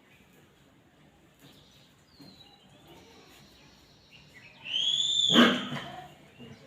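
An animal's single loud, high-pitched cry, rising then falling, about five seconds in, over faint bird chirps.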